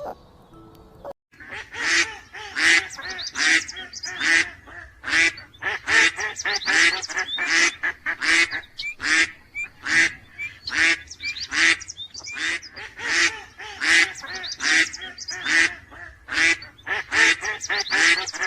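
A bird calling loudly over and over, about two calls a second, starting about a second in.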